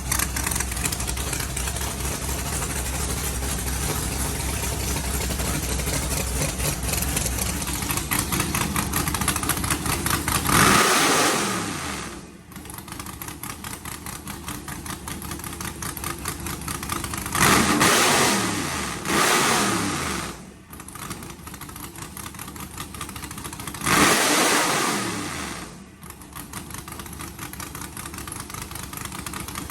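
408 stroker V8 with open zoomie headers idling, then revved in quick blips: once about a third of the way in, twice in close succession past the middle, and once more near the end, each time falling back to idle.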